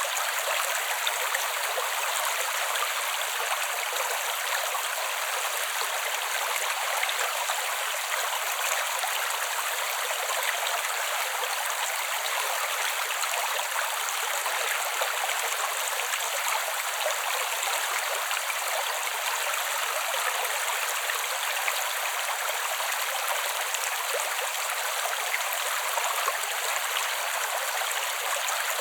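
Small creek flowing: a steady, even rush and burble of running water with no deep rumble.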